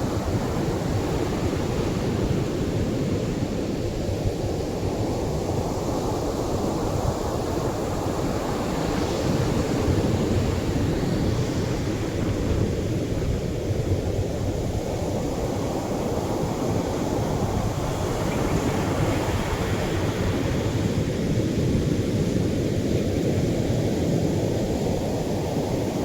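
Atlantic surf on a sandy shore: a steady roar of waves, with the hiss of breaking water swelling about eight seconds in and again near nineteen seconds.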